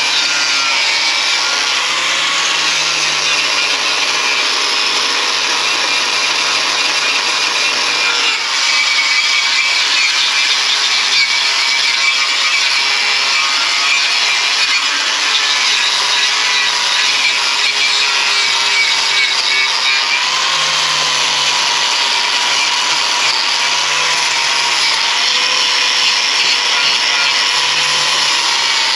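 A handheld power tool scouring surface rust off the steel chassis rails of a Toyota Hilux. It makes a loud, continuous grinding hiss, and its motor note wavers slightly as the tool is pressed onto and eased off the metal.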